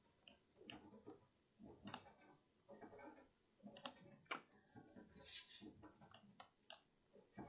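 Faint, irregular clicks of a computer mouse and keyboard, a dozen or so scattered through the pause, over quiet room tone.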